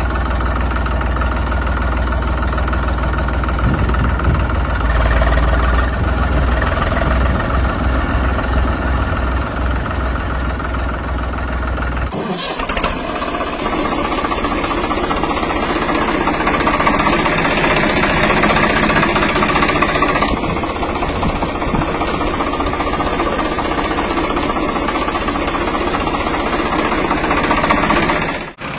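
Tractor engine running: first a steady idle with a deep rumble, then an abrupt cut about twelve seconds in to a different, busier engine sound that stops suddenly near the end.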